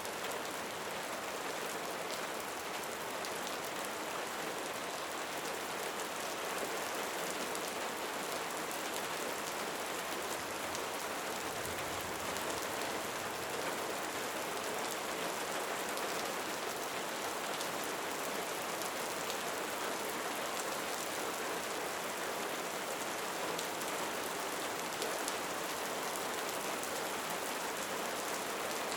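Steady rain falling, holding an even level throughout.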